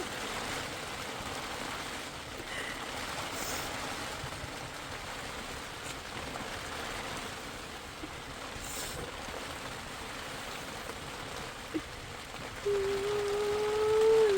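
Steady rainfall, an even hiss. Near the end a held pitched tone sounds for about a second and a half over it, the loudest thing in the stretch.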